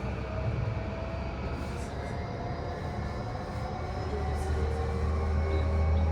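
Running noise inside the motor car of a JR E235-1000 series electric train: the tones of its Mitsubishi full-SiC MOSFET VVVF inverter and traction motors over wheel-on-rail rumble. A deep rumble grows louder about four seconds in.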